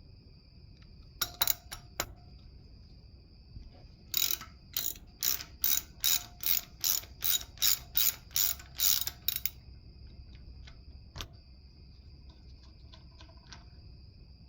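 Hand ratchet wrench clicking in short strokes as a fastener is turned on the engine: a few clicks, then a run of about a dozen strokes at roughly two a second, and one last click a little later.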